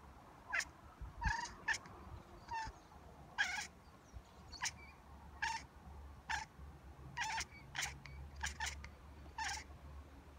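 Domestic cat making a string of short chirping calls at birds, about a dozen brief chirps at irregular gaps.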